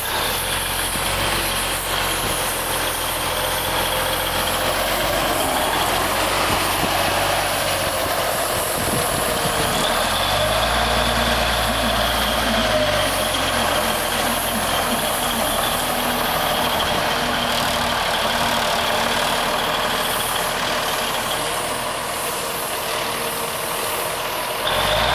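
1969 Peterbilt 358 bed truck's engine running, its speed rising and falling a couple of times.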